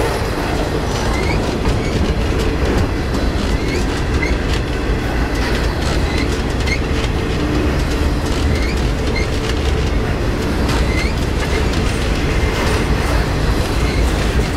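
Double-stack intermodal freight train rolling past at close range: a steady loud rumble and hiss of steel wheels on rail, with short high chirps from the wheels recurring about once a second.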